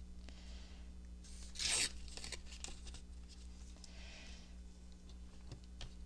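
Paper being torn by hand, with one short tear about a second and a half in, amid lighter rustling and handling of paper pieces.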